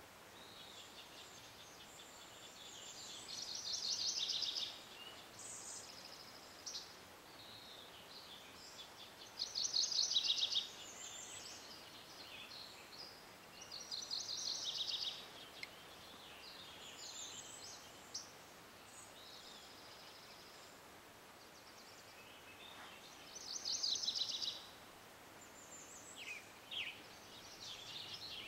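Songbirds singing: a bird repeats a fast, high trilled phrase about a second long every several seconds, with short chirps from other birds in between over a faint steady hiss.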